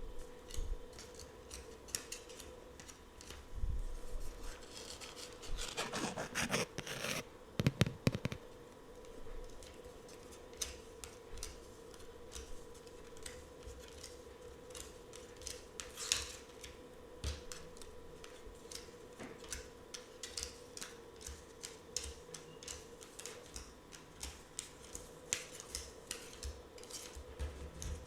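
Tarot cards being handled up close: many light taps and clicks, with a few louder rubbing, sliding swishes, over a faint steady hum.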